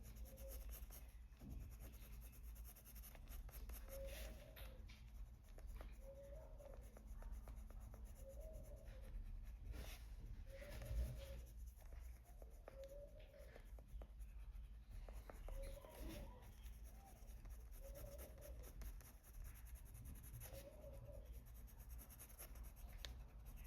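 Faint scratching of a coloured pencil on paper, with short repeated shading strokes as colour is laid into shadow areas.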